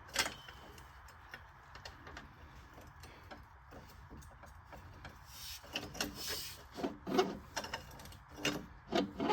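Faint metal-on-metal scraping with scattered clicks and knocks from an AMC Eagle's engine. It is the gouging sound the mechanics trace to the starter's Bendix drive hitting.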